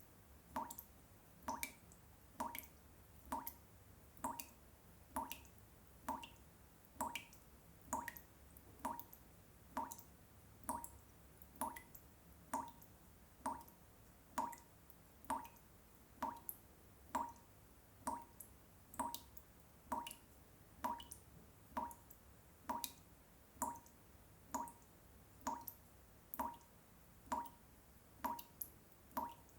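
Water drops falling one after another in a steady, even rhythm, nearly two drops a second, each a short plink.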